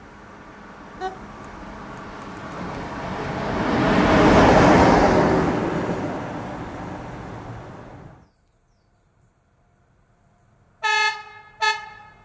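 HŽ series 1141 electric locomotive passing close by: the rumble of its wheels on the rails swells to a loud peak about four seconds in, then fades and cuts off abruptly. Near the end come two short train horn blasts, the second briefer.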